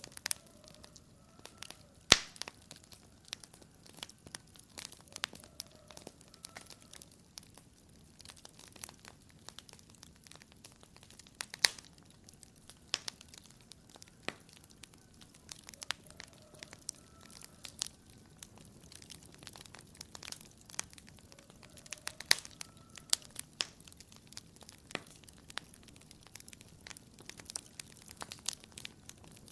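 Wood fire crackling in a fireplace: irregular snaps and pops over a low hiss, with a few louder sharp pops, the loudest about two seconds in.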